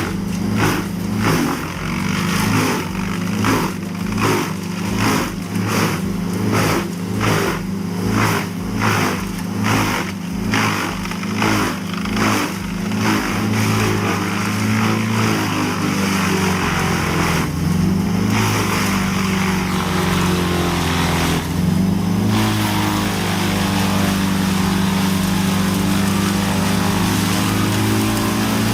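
Vermeer BC2100XL wood chipper's diesel engine running under load, with a regular pulsing about every 0.7 seconds through the first half as material is fed in. It then settles into a steady drone, its pitch sagging briefly and recovering twice.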